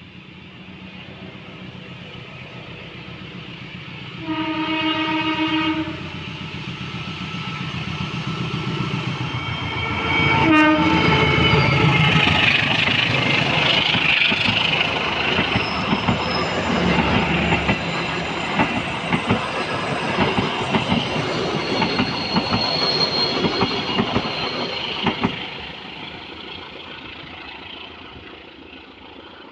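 Pasundan passenger train hauled by a diesel locomotive passing close by: the engine sound builds, the horn sounds one blast about four seconds in and a short second note about ten seconds in whose pitch drops as the locomotive goes by. The carriages follow with a rhythmic clickety-clack of wheels over rail joints, fading away near the end.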